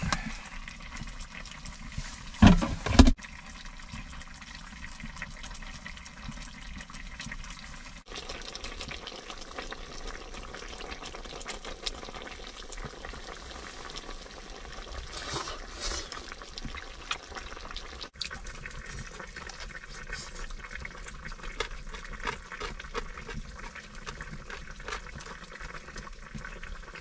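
Food cooking on a heating stove, a steady sizzling hiss, with a couple of loud knocks about two and a half seconds in.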